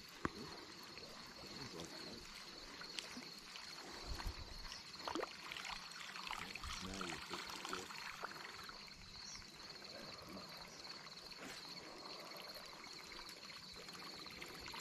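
Faint water lapping and trickling against a boat, with a steady high-pitched insect drone and a few small ticks.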